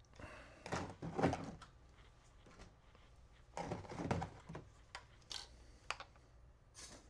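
Small RC crawler truck clambering over obstacles: two clusters of clattering knocks and scrapes from its tyres and chassis, with a few single sharp clicks near the end.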